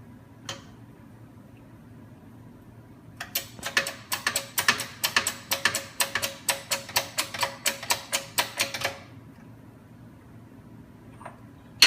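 Rapid run of sharp metallic clicks, about five a second for some six seconds, each with a short ring, from the tool pressing a new oil seal into a Hydramatic automatic gearbox part; a single click comes first, a few seconds before the run.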